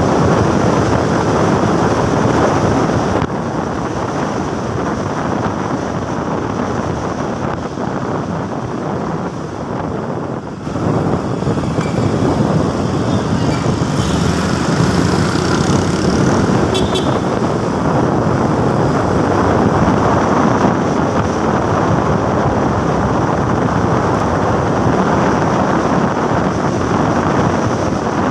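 Motorcycle ridden at speed, about 100 km/h, with wind rushing over the microphone over the steady run of the engine. The noise dips briefly about ten seconds in.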